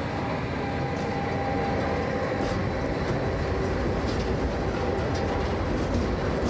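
Freight train of tank wagons rolling past close by, hauled by a Bombardier Traxx class 187 locomotive working off its Last Mile diesel with no overhead wire. A steady rolling rumble, with a few faint clicks from the wheels on the rails.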